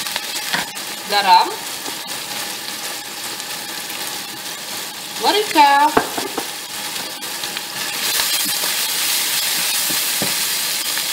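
Chicken, mushrooms and bean sprouts sizzling in hot oil in a frying pan, with scattered light knocks of a wooden spatula. The sizzle grows louder in the last few seconds as the food is stirred.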